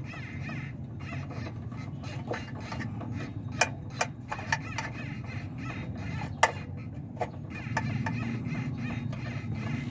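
Car engine running with its accessory belt drive, a steady hum carrying the noise of the water pump, whose bearing the mechanic judges to be noisy. A few sharp clicks or knocks come in the middle.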